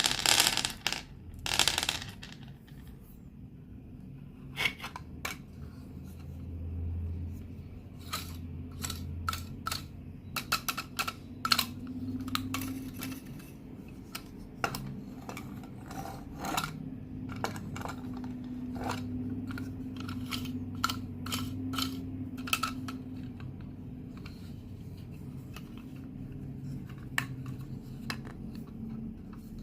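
Candy and its packaging handled close to the microphone: a loud crinkling burst at the start, then scattered sharp clicks and taps of hard plastic and candy pieces, over a faint low hum.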